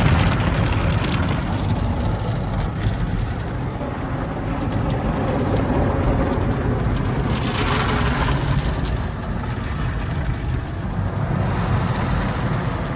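Automatic tunnel car wash heard from inside the car: a steady low rumble of the wash equipment, with a louder hiss of spray for about a second and a half past the middle.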